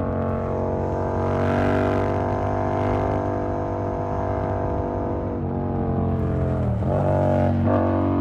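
Yamaha MT-07's 689 cc parallel-twin engine through an SC Project aftermarket exhaust, running steadily at cruising speed. The revs dip briefly about seven seconds in, then pick up again.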